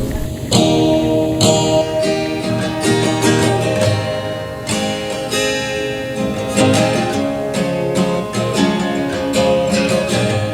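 Instrumental music: an acoustic guitar strummed in a steady rhythm, with no singing.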